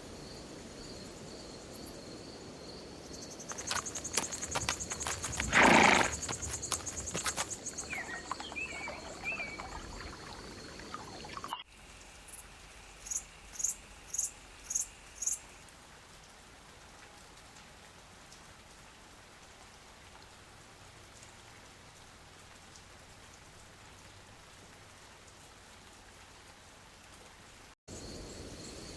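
Night-forest ambience: insects trilling steadily, with a burst of clicks and one loud rush about five seconds in. After a cut come five short high-pitched calls in a row, then a quieter steady hiss of the night woods.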